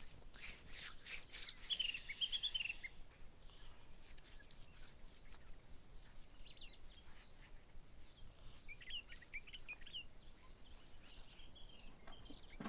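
Small birds chirping faintly in short, quick twittering phrases, once about two seconds in and again about nine seconds in, with a few soft ticks in the first second or so.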